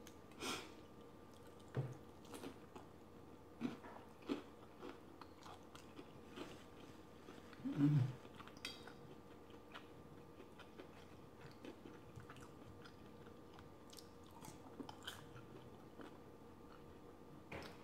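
Close-up chewing and biting of battered fried lobster tail, with scattered soft crunches and wet mouth clicks.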